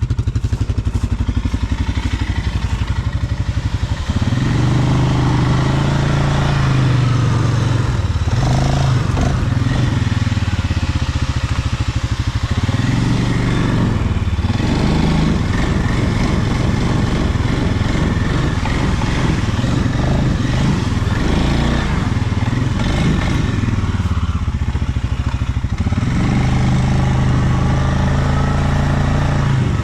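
Stels Leopard 650 ATV engine working hard while the quad ploughs through deep snow in four-wheel drive, the revs rising and falling again and again as the rider pushes on.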